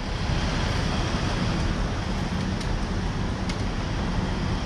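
Steady noise of a motorcycle in motion: wind rushing over the camera microphone mixed with engine and road noise.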